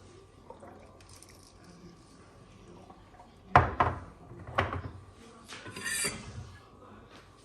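Dishes clattering: two sharp knocks about a second apart, then a brief rattle.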